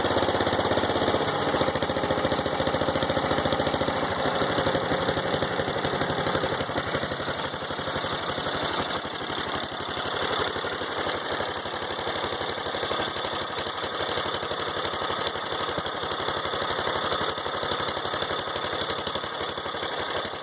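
Riding lawnmower's small engine running steadily with a rapid, even pulsing as the mower is driven, its fuel tank nearly empty ('on gas vapor').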